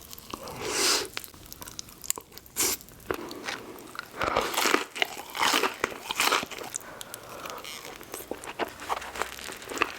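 Close-miked eating: a run of crunchy bites into crisp fried food, with chewing between them.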